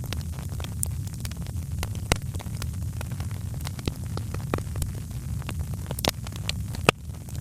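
Fireplace wood fire crackling: irregular sharp pops and snaps, several a second, over a steady low rumble.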